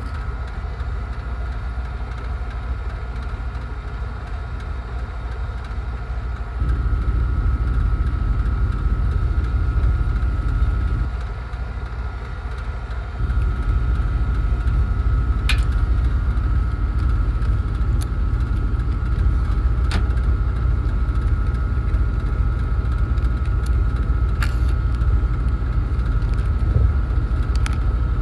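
Steady machine rumble with a constant high whine. It gets louder about six seconds in, dips briefly, then rises again, with a few sharp clicks in the second half.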